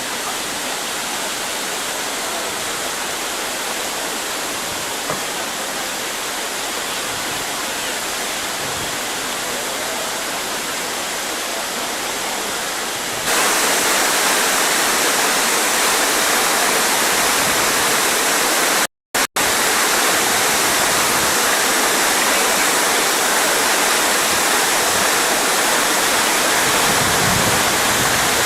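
Steady, loud rushing noise with no distinct events. It jumps louder about halfway through and cuts out completely for a moment a few seconds later.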